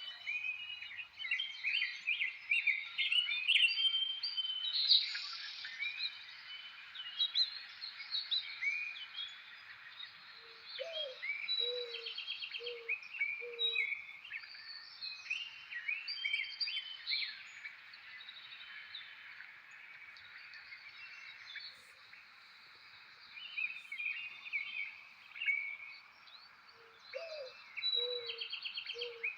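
Several wild birds singing and chirping together, with many short whistled and trilled notes. Twice, a lower call of four or five short hooting notes in a row sounds under the chirping.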